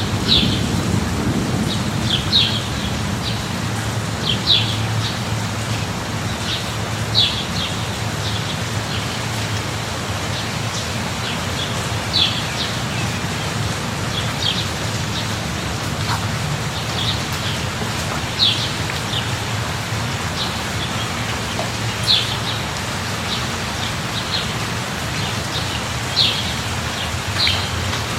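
Steady rain falling, an even hiss with a low rumble under it, with short high bird chirps every couple of seconds.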